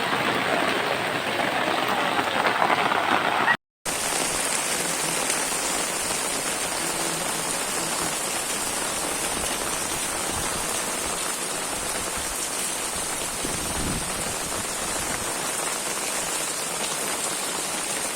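Heavy rain falling steadily, a dense, even hiss of water, with a brief dropout to silence about four seconds in.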